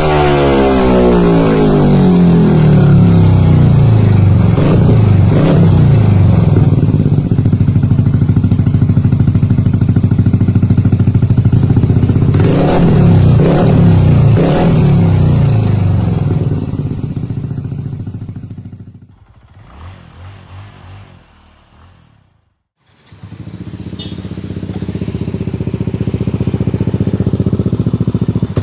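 Yamaha NMAX scooter's single-cylinder four-stroke engine through an aftermarket racing exhaust, revved with throttle blips that rise and fall, then dying away to a short quiet gap. After the gap an engine with a racing exhaust runs steadily again.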